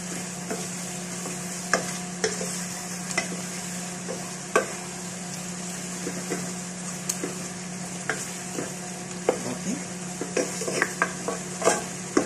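Chicken pieces with onions sizzling as they fry in a nonstick pot, stirred with a wooden spoon that knocks and scrapes against the pot at irregular moments. A steady low hum runs underneath.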